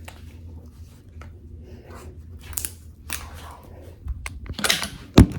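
Objects being handled close to the microphone: crinkling, scraping and small clicks that grow busier after about two seconds, ending in a loud bump just before the end, over a low steady hum.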